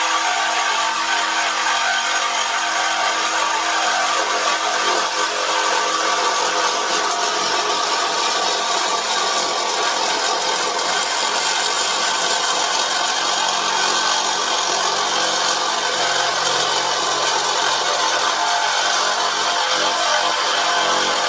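DeWalt DCS369 Atomic 20V one-handed cordless reciprocating saw running steadily, its blade cutting through exhaust tube.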